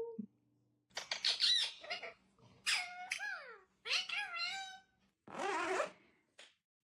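A pet animal giving four short calls, each sliding down in pitch, the last one rougher and more like a squawk.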